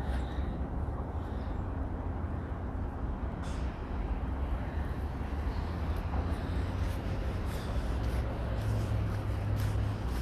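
Steady low rumble of a passing vehicle, with a few faint clicks.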